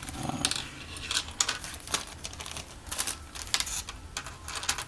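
Small hard parts and packaging being handled: irregular light clicks and taps, with a brief rustle near the start.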